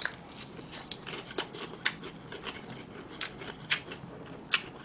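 Close-miked chewing of crispy deep-fried breaded food, a series of short, irregular crunches.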